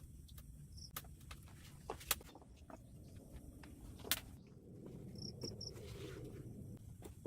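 A few sharp knocks and clicks over a low steady rumble, with short high chirps: a single one near the start and a quick run of three about five seconds in.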